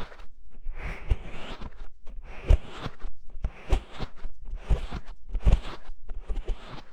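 Hands covering and gently scratching the ears of an ASMR microphone, in rustling, muffled strokes about once a second, each with a soft low thump.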